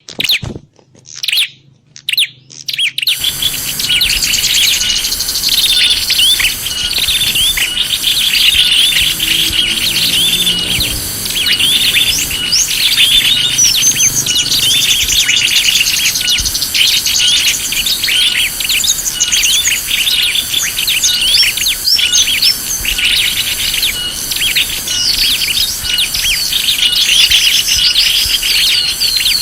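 Bird-lure recording of many small birds chirping and twittering densely, over a high call repeated at a steady beat. The first three seconds hold only a few scattered sounds before the dense chirping starts.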